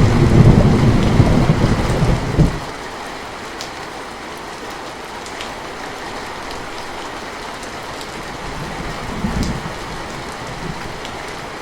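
Steady rain falling, with a loud low rumble of thunder over the first two and a half seconds that stops abruptly, and a fainter rumble about nine seconds in.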